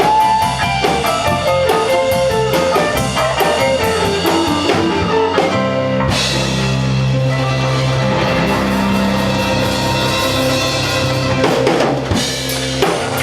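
A band playing rock music, with electric guitar and drum kit. About halfway through, the band holds a long chord over a cymbal wash, and the drums come back in near the end.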